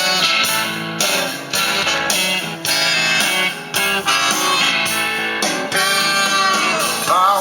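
Guitar-led song playing through a car audio system: a Pioneer DEH-970 head unit driving morel Tempo 6 front speakers.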